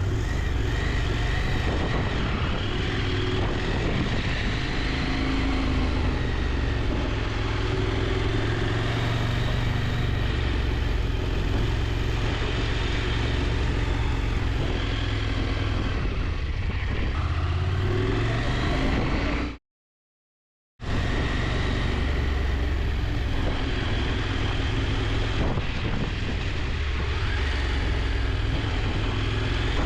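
KTM 890 Adventure's parallel-twin engine running steadily under way, its pitch rising for a couple of seconds about two-thirds through as the bike accelerates. The sound cuts out completely for about a second just after that, then the engine returns.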